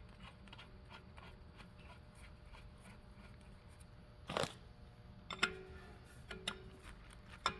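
A few light metallic clicks and taps against a quiet room background, the loudest about four seconds in, as a hydraulic fitting is handled and threaded by hand into a car lift's power unit.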